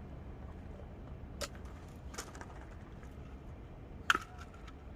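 A few short, sharp clicks or taps, three in all and the loudest about four seconds in, over a steady low rumble.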